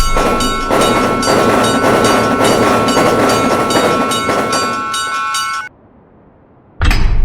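Railroad crossing warning signal ringing rapidly, about five strokes a second, while a train passes with a rumble and a regular clickety-clack of wheels on rail joints. Both cut off suddenly, and a loud low thump follows near the end.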